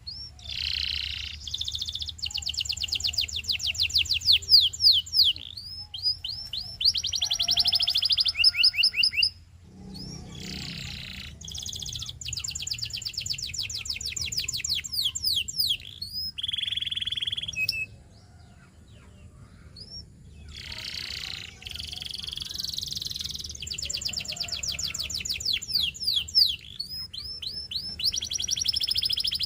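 Canary singing: long phrases of fast, rapidly repeated trilling notes, broken by short pauses.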